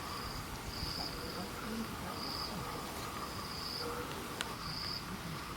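Insect chirping in the bush: short, high, buzzy trills repeating about once a second over a faint steady background hum. One sharp click comes about four seconds in.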